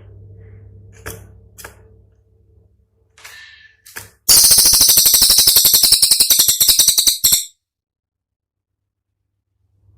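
Cililin songbird giving a few faint chips, then a loud, very fast rattling burst of sharp notes, a 'tembakan', lasting about three seconds and cutting off suddenly. A low hum sits under the first few seconds.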